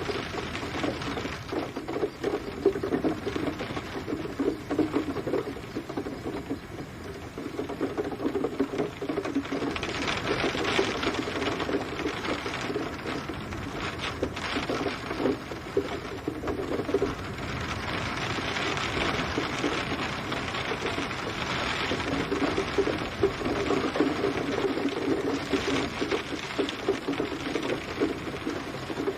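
Rain falling steadily, a dense patter of drops on a hard surface, with heavier spells that swell and ease every few seconds.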